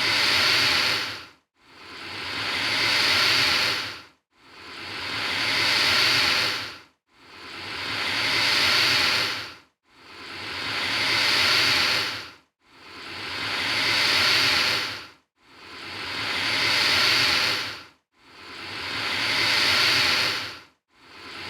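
Alligator hissing, the same long hiss repeated about eight times. Each hiss swells, then cuts off briefly before the next.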